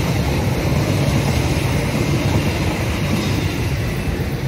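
KAI passenger coaches rolling past on the rails: a steady, loud rumble of wheels on track that eases a little near the end as the last coach clears.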